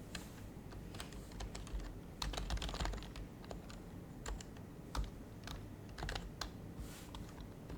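Typing on an HHKB Professional HYBRID Type-S keyboard, whose silenced Topre switches give soft keystrokes. The typing comes in uneven bursts, with a quick run of keys about two seconds in and scattered single strokes after it.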